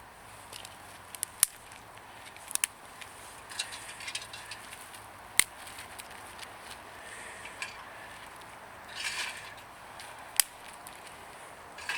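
Hand work on a homemade bonfire stove: a few sharp, scattered clinks and knocks with lighter ticks between them, and a short scraping rustle about nine seconds in.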